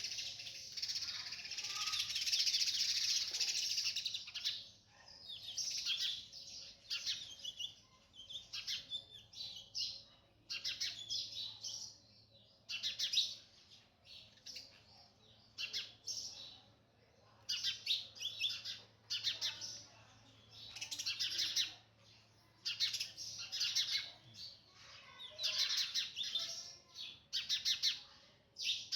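Sunbird calling: a long high twittering phrase over the first few seconds, then short bursts of rapid high chirps every second or two.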